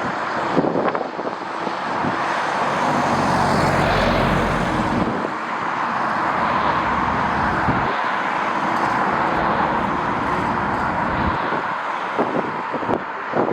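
Jet airliner engines running as an aircraft passes the airfield: a loud, steady rush that swells and deepens through the middle, with a faint high whine.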